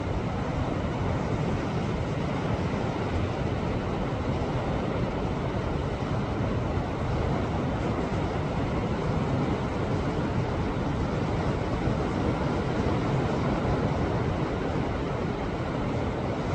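Sea waves washing against a rocky shore, a steady low rush of surf with no single wave standing out. Wind on the microphone may add to the low rumble.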